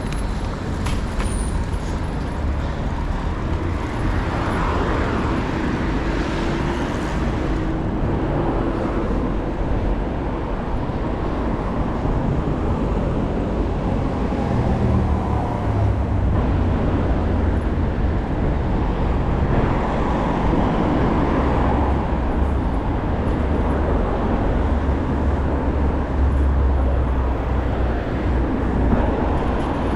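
City street traffic: cars and other vehicles passing, a steady rumble of road noise that swells several times as vehicles go by.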